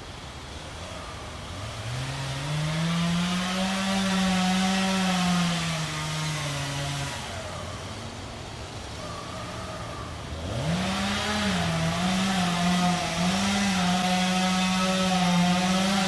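Chainsaw revving up and cutting, easing back to a lower speed about seven seconds in, then revving again and running hard, its pitch dipping now and then under load.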